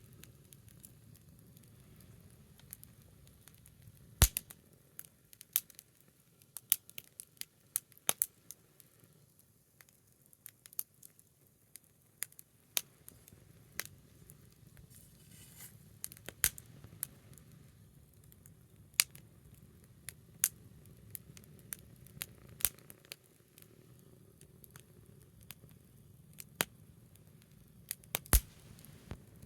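Small wood bonfire burning low and crackling: irregular sharp pops and snaps from the burning wood over a faint low hiss, with the loudest pops a few seconds in and near the end.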